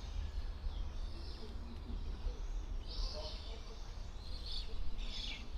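Birds chirping a few times, about three seconds in and twice near the end, over a steady low rumble.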